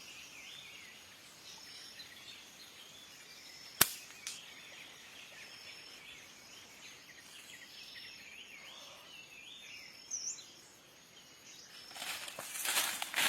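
Small birds and insects chirping steadily, with one sharp loud snap about four seconds in and a fainter one just after. Crackling rustle starts near the end.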